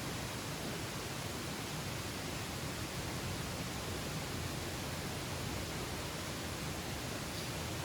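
A steady, even rushing noise of outdoor ambience, with no distinct events.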